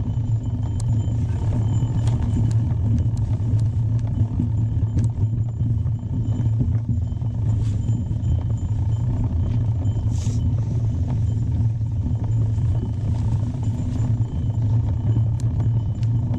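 Mountain bike ride on a trail: a steady low rumble of tyres and wind on the microphone, with scattered clicks and rattles from the bike.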